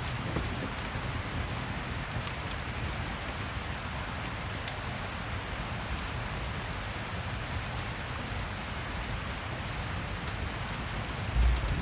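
Steady rain ambience with a low rumble beneath and occasional faint crackles of a fireplace. A low thump comes just before the end.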